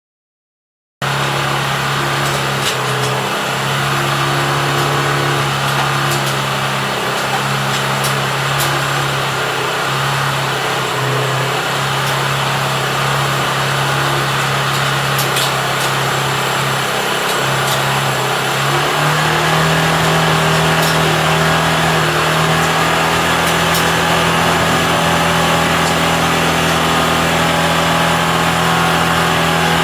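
Hero Honda Hunk's single-cylinder four-stroke engine running at a steady idle after its repair, cutting in abruptly about a second in. Partway through, the idle picks up slightly and holds at the higher speed.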